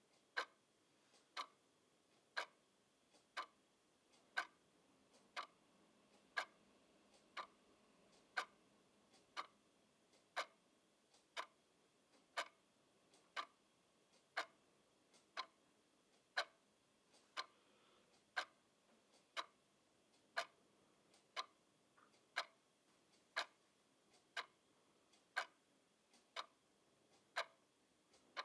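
Clock ticking steadily at about one tick a second, the ticks alternating louder and softer in a tick-tock pattern.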